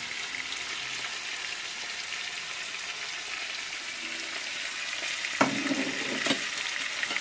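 Food sizzling steadily as it fries in hot oil, with two sharp knocks of a utensil being stirred through it about five and six seconds in.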